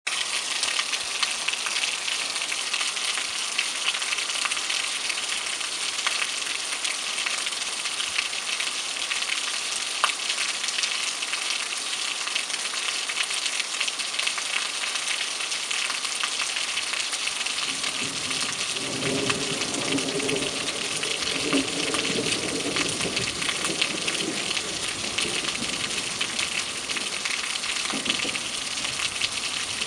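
Heavy rain pouring onto a paved street, a dense, steady hiss of countless drops. A low drone swells in a little past the middle and fades after several seconds.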